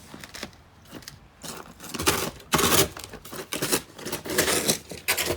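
Snow crunching underfoot in a string of irregular, grainy bursts, picking up about two seconds in.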